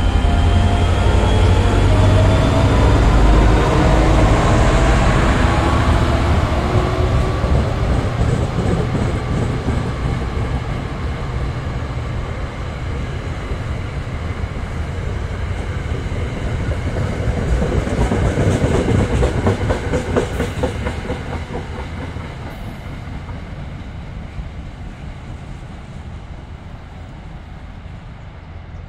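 Alstom PL42AC diesel-electric locomotive running loud alongside at first, then its train rolling away with wheel clickety-clack. The sound swells briefly about two-thirds of the way in and fades steadily as the train recedes.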